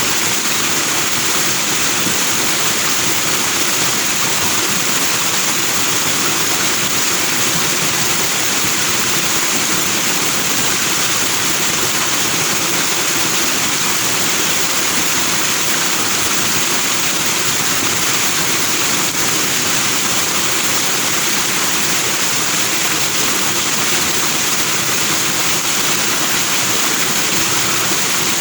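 A forest stream rushing and foaming over rocks, a steady, even rush of water with no breaks.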